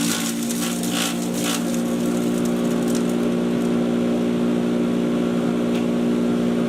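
Patriot 1.5-HP electric chipper shredder running steadily with an even motor-and-blade hum. In the first second or so there is a brief crackling as material is chewed up, then it runs on with only an occasional small tick.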